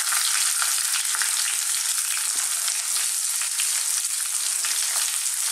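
Lime leaves, galangal, ginger, garlic and sliced red onion frying in hot sesame oil in a wok: a steady sizzle with many small pops and crackles, the leaves noisy as they go into the oil.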